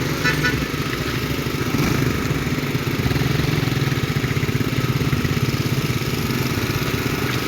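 A heavy construction machine's engine running steadily, growing a little louder about two seconds in, with light rattling near the start.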